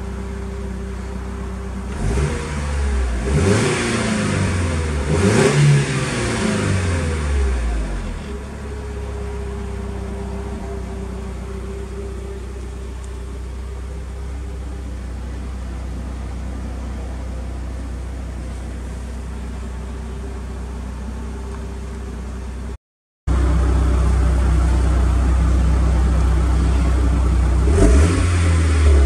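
Mitsubishi Lancer Evolution VII GT-A's turbocharged 2.0-litre four-cylinder engine idling, heard from inside the cabin. It is revved up and down a few times a couple of seconds in, then settles back to idle. After a break it idles louder at the Ralliart aftermarket muffler's tailpipe, with a short rev near the end.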